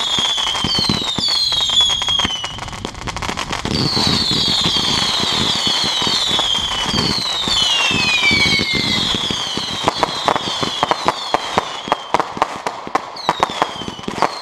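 Fireworks going off: many overlapping whistles, each falling in pitch, over a steady crackle, giving way about ten seconds in to a rapid run of sharp crackling pops.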